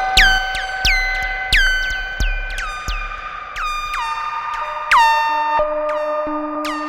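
Modular synthesizer sequence of plucked electronic notes, about one every two-thirds of a second. Each note opens with a quick downward pitch drop over a low thump, and echoes of earlier notes ring on beneath.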